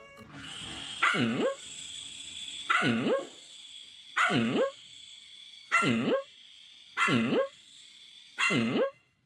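A dog barking six times, about one bark every second and a half, over a steady hiss.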